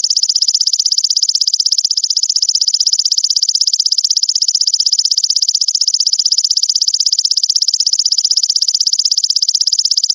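Grasshopper (belalang) stridulating: a loud, high, rapidly pulsing buzz held steadily without a break, a recording used as a masteran call for songbirds to learn.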